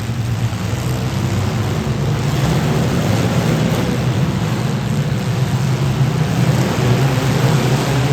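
Demolition derby car engines running hard: a loud, steady low drone under a dense wash of noise.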